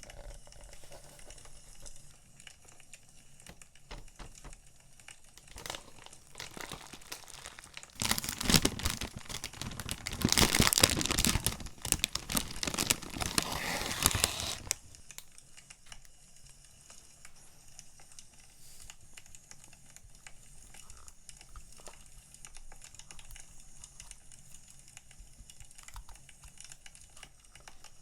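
Stationery packaging being unwrapped by hand, crinkling and tearing loudly for about seven seconds in the middle, with quieter rustling and handling before and after.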